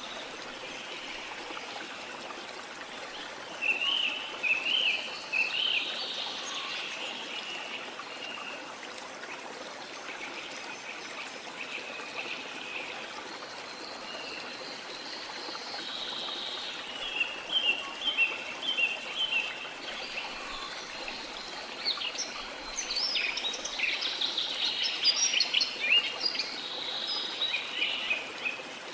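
Steady rush of running water with birds chirping over it. The calls come in short flurries: a few seconds in, again around the middle, and thickest near the end.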